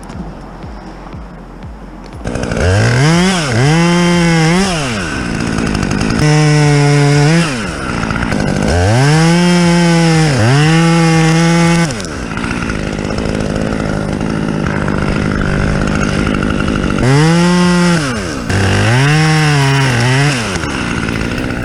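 Chainsaw engine revved hard again and again, its pitch climbing to full throttle, holding and dropping back, with a steadier lower-revving stretch in the middle.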